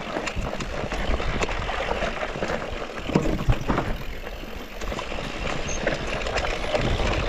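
Mountain bike ridden over a dirt trail: a steady rush of wind on the microphone and tyre noise, with frequent small clicks and knocks as the bike rattles over bumps.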